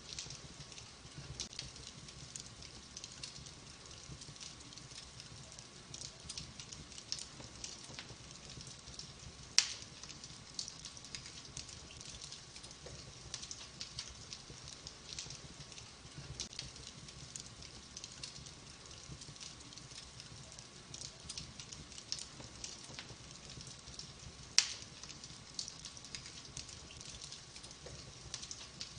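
Logs burning in a wood fireplace, crackling with a steady run of small pops and ticks, and two sharper, louder pops about fifteen seconds apart.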